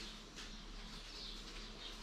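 Small birds chirping in repeated short high calls over a faint steady background hum.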